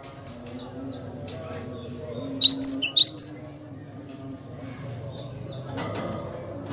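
Cinereous tit (gelatik batu) singing: a quick run of four loud, sharp chirps about two and a half seconds in, with fainter chirps before and after.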